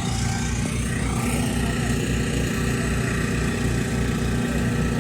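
Car engine idling with a steady, even low pulse.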